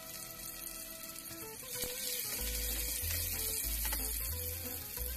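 Chopped shallots and garlic frying in hot oil in a saucepan with a steady sizzle, over background music whose bass line comes in a little over two seconds in.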